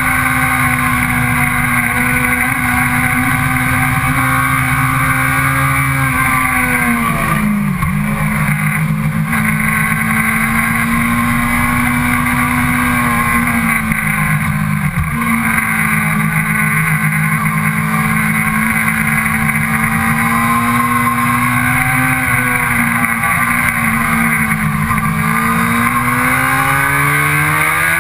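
A sport motorcycle's engine running hard under the rider, heard from on the bike. The revs fall quickly and climb back twice, about a quarter and half of the way through, and rise steadily again near the end.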